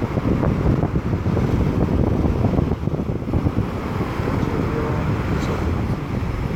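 Strong wind buffeting the microphone in uneven gusts, loud throughout, with the noise heaviest in the low end.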